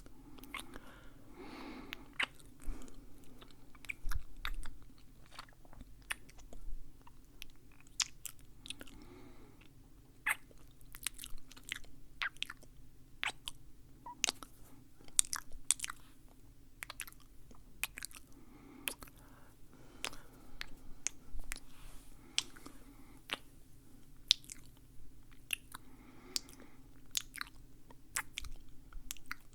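Close-miked mouth chewing and crunching: many sharp wet clicks through the whole stretch, with a few soft breaths between them.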